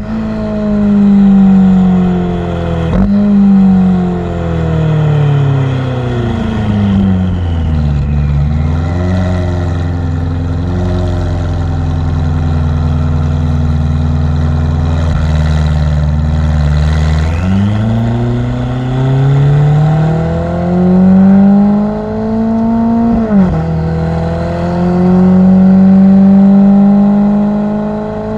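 Ferrari F8's twin-turbo V8 through a Novitec exhaust. The engine winds down with a sudden rev jump on a downshift about three seconds in, then runs low and steady for several seconds. It then accelerates, its pitch rising, drops back sharply on an upshift about two-thirds of the way through, and climbs again to a second upshift at the end.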